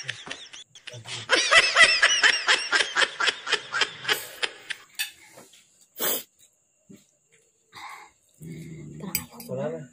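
High-pitched laughter in a quick run of short bursts that fades out, followed a little past halfway by a short sharp hiss and, near the end, low voices.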